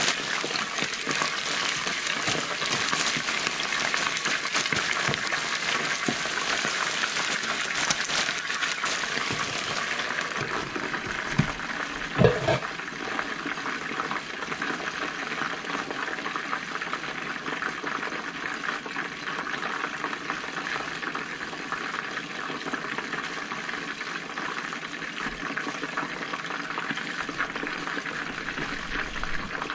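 Chicken wings deep-frying in hot canola oil in a pan, a steady dense crackle and sizzle. A single knock about twelve seconds in as the glass lid is set on the pan.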